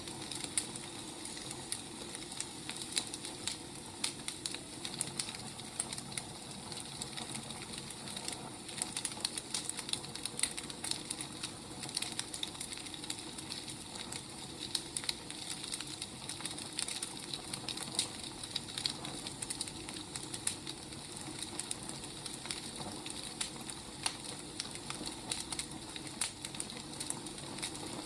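Burning firewood crackling, with irregular sharp pops and snaps over a steady low hiss of the fire.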